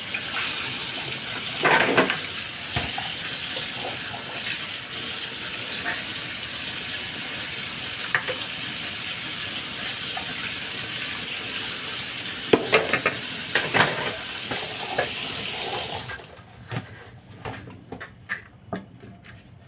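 Kitchen tap running steadily into a sink while things are rinsed under it, with dishes or containers clattering against the sink a couple of times. The water is shut off suddenly near the end, followed by a few light knocks and clinks.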